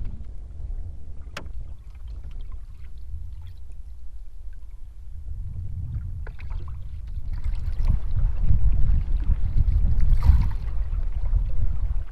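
Canoe paddle strokes in the water, heard as swishes in the second half, over a low wind rumble on the microphone that grows louder. One sharp tap comes about a second and a half in.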